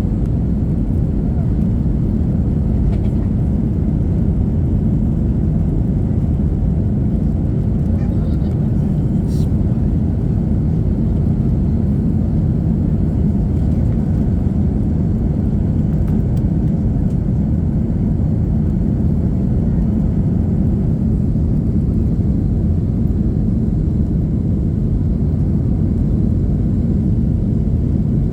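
Steady engine and airflow rumble inside the cabin of an Airbus A321-231 in flight, with its IAE V2500 turbofans running, heard from a rear window seat.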